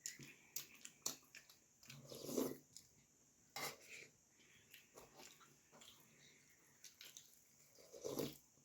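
Close-miked eating sounds of someone chewing puri and vegetable curry: scattered wet mouth clicks and smacks, with two louder, fuller mouth sounds, one about two seconds in and one near the end.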